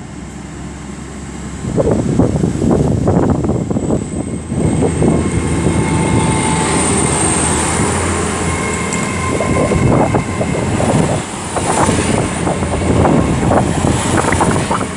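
Great Western Railway Class 800 train pulling out and running past, its wheels clattering over the track. The sound gets louder about two seconds in, with a faint high whine that rises slightly as it picks up speed.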